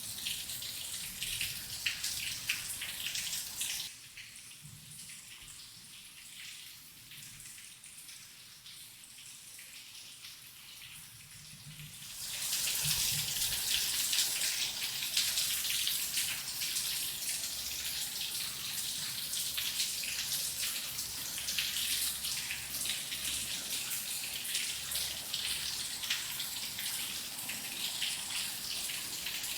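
Rain falling, a dense hiss of fine drop ticks. It turns much quieter about four seconds in, then swells back heavier about twelve seconds in.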